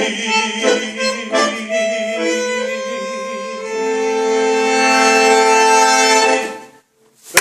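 Free-reed instrument playing the song's closing notes, then settling on a long held chord that fades out about six and a half seconds in.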